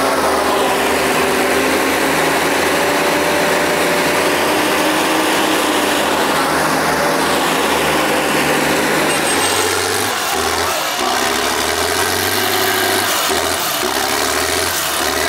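Tractor engine running steadily, its note shifting about ten seconds in.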